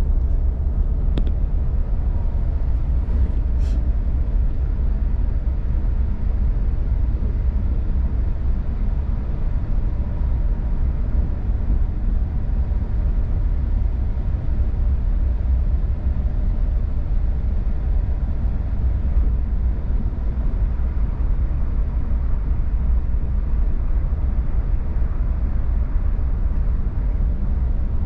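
Interior noise of a passenger train running between stations: a steady, loud low rumble of wheels on track with a faint engine hum, heard from inside the carriage.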